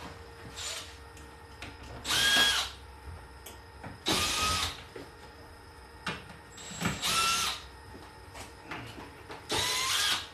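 A power drill run in four short bursts of under a second each, its motor whining up to speed each time.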